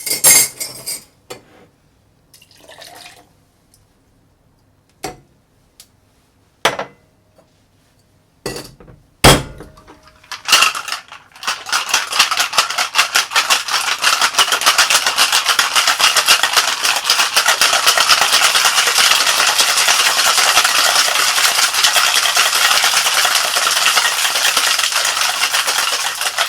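Ice clinking into a cocktail shaker, with a single sharp knock about nine seconds in. From about eleven seconds in, ice rattles rapidly and steadily inside the shaker as the drink is shaken.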